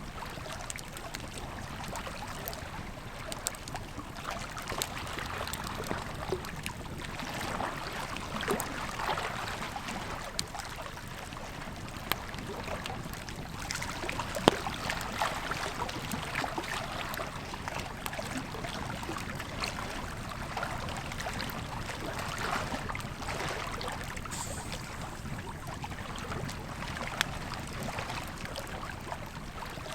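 Wood fire crackling and popping over the steady rush of a river, with one louder pop about halfway through.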